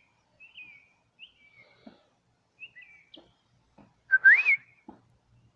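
Small songbirds calling with short, repeated chirps, and one loud rising whistle about four seconds in.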